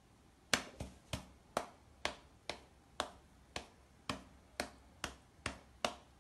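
A cat's paws batting against a person's hand: a run of about a dozen sharp slaps, roughly two a second and slightly uneven.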